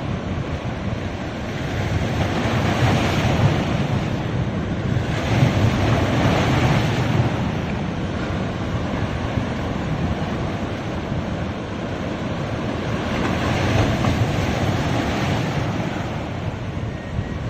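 Sea waves breaking and washing up on a beach, surging louder three times, with wind rumbling on the microphone.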